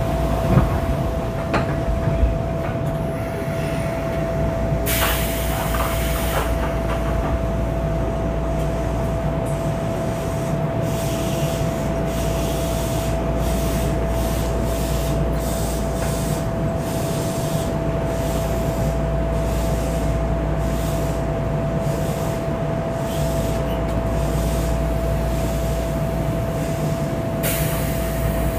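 Keisei 3500 series electric commuter train, heard from on board: a steady low rumble with a constant tone over it. Short bursts of hiss come about five seconds in and again near the end.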